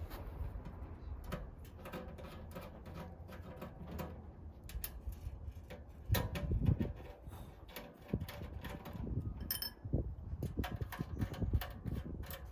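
Handling noise from unpacking a wood stove and its packaging: scattered clicks, taps and knocks, with a few heavier thumps about six seconds in and again near ten seconds.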